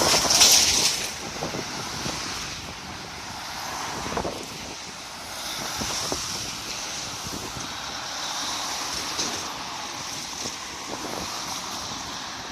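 Road traffic going by, with wind noise on the microphone: a loud rush in the first second, then more passing swells that rise and fade.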